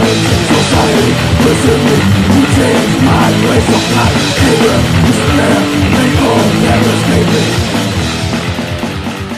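Heavy death/thrash metal music, with a drum kit and distorted electric guitars, that begins to fade out near the end.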